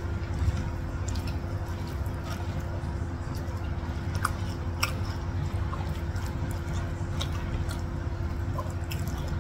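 A person chewing a mouthful of fried stuffed tofu with the mouth closed, with scattered faint wet ticks from the mouth and fingers picking at rice, over a steady low hum.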